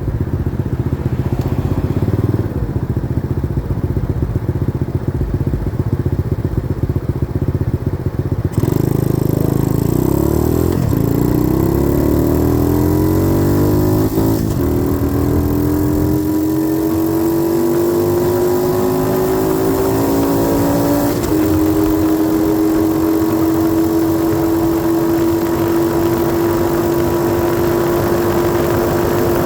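90cc dirt bike engine running low and rough for the first several seconds, then revving up as the bike pulls away. The pitch rises and is broken twice by gear changes, then settles into a steady drone at cruising speed.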